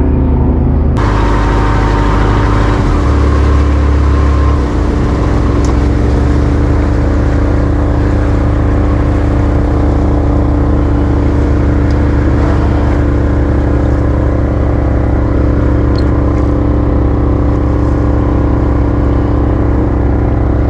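Yamaha FAST26 fishing boat's engine running steadily, its tone shifting a few times in the first five seconds and then holding even.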